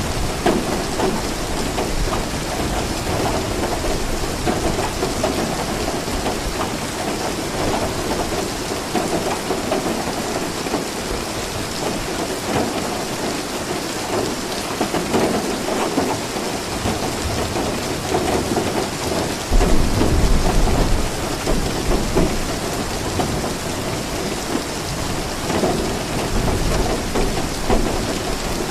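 Steady rain falling, with a low rumble of thunder about two-thirds of the way through.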